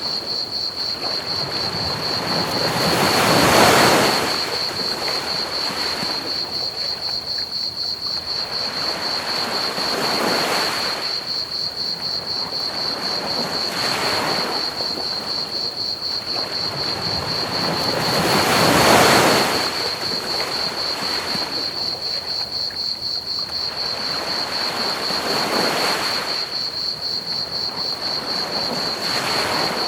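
Ocean waves washing onto a beach in slow surges every few seconds, two of them larger, about four seconds in and again past the middle. Under them runs a steady bed of pink noise, and over them a continuous high trill of crickets.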